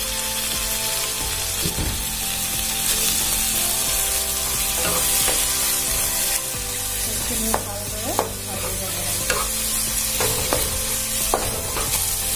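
Chopped tomatoes sizzling in hot oil in a wok, stirred with a spatula that scrapes the pan. In the second half come several sharp taps of the spatula against the pan.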